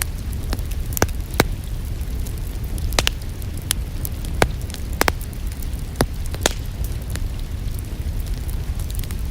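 Wood fire crackling in a fireplace, with about eight sharp pops scattered at irregular intervals over a steady low rumble of the flames. Rain hiss sounds underneath.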